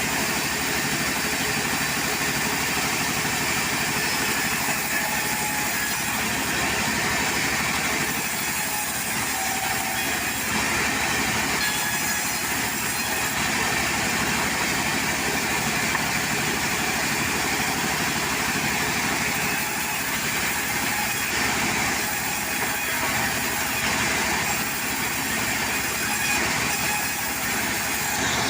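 Portable sawmill running steadily, a continuous engine noise with no pauses.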